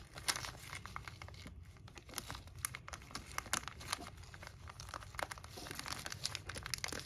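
Plastic parts packaging crinkling and rustling as it is handled, a dense run of small irregular crackles.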